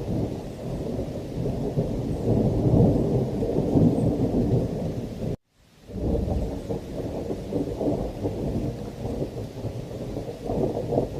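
Thunderstorm: heavy rain with continuous low rumbling thunder. The sound cuts out abruptly for about half a second about halfway through, then resumes.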